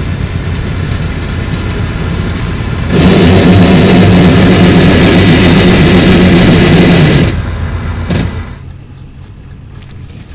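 Bizon Super Z056 combine harvester's SW-400 six-cylinder diesel engine running. It gets much louder about three seconds in, holds there for about four seconds, then drops back to a lower steady run.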